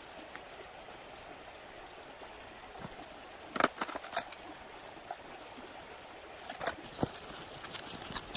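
Mountain stream running steadily, with two short clusters of sharp clicks or knocks, one a little past halfway and another near the end.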